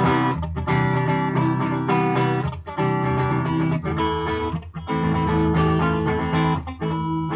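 Guitar strummed, chord after chord, with brief breaks about every two seconds.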